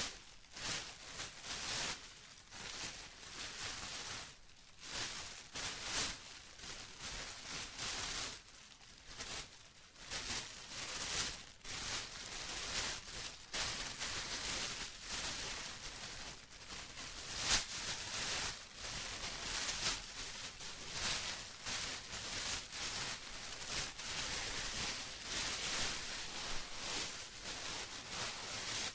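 Plastic being rustled and crinkled by hand, an irregular run of crisp crackles, with a sharper crackle about two thirds of the way through.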